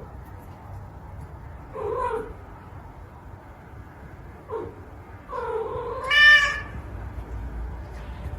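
A cat meowing several times in separate calls, one of them a louder, higher-pitched yowl a little past the middle.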